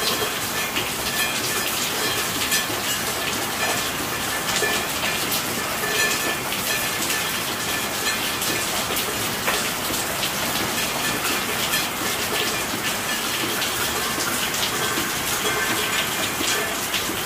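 Steady rain falling, a dense patter of many small drops hitting a surface at an even level.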